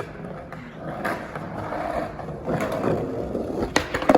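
Skateboard wheels rolling on a concrete garage floor, a steady rumble, with a few sharp clacks near the end.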